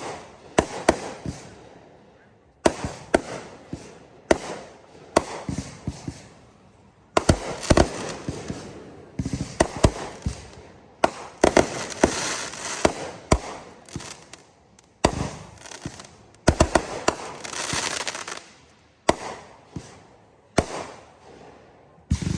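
A fireworks display of aerial shells and 500-gram cakes going off: a run of sharp booms and bangs in quick succession, with several longer stretches of dense crackling.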